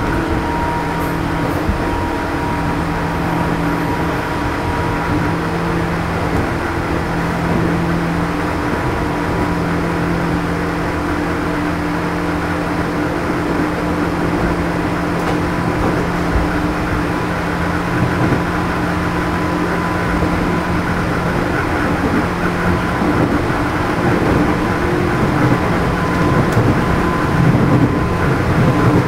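Running sound from under a JR East 211 series electric train car (MoHa 211-1): the rumble of wheels on rail, with the traction motor and its external cooling fan giving a steady hum of several tones. This car is known as an odd-sounding car for its motor noise.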